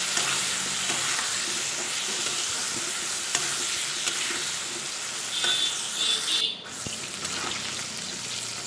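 Chunks of young green jackfruit sizzling as they fry in hot oil in a kadai, being browned, with a metal spatula clicking and scraping against the pan as they are stirred. The sizzle drops abruptly a little past halfway.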